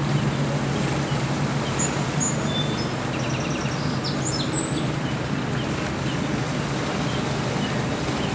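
Steady low mechanical drone, with small birds chirping and trilling a few times in the middle.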